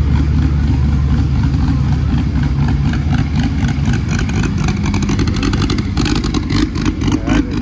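Car engines running with a deep, steady low rumble, joined in the second half by a fast run of crackling clicks.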